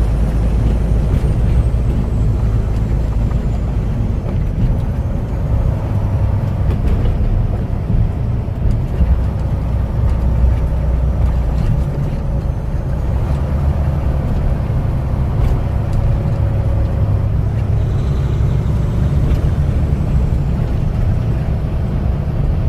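Truck's engine and tyre noise while driving on the highway, a steady low rumble heard from the cab.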